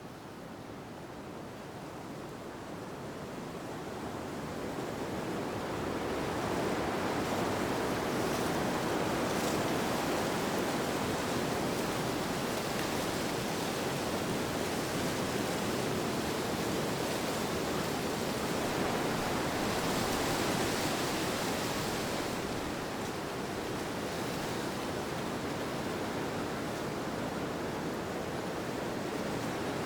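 Steady wind noise that builds over the first several seconds and then holds even, easing slightly a little past the middle.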